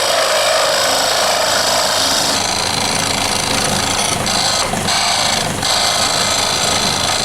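Wood lathe running steadily while a wooden knife-handle blank is shaped against the tool. The higher scraping noise drops out briefly three times around the middle.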